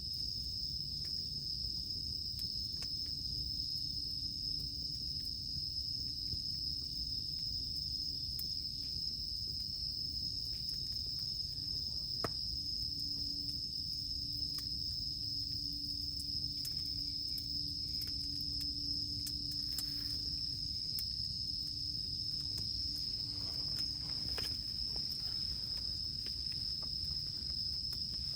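Insects singing in one steady, unbroken high drone over a crackling campfire, whose wood gives scattered small pops and snaps.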